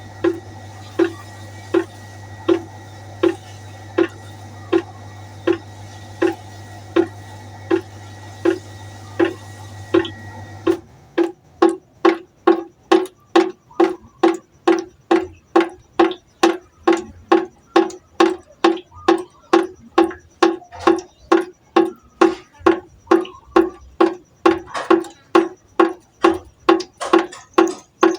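Water droplets falling one by one into a pot of water, each making the same pitched plink at a steady rate. About eleven seconds in a background hum stops and the drops come faster, two or three a second.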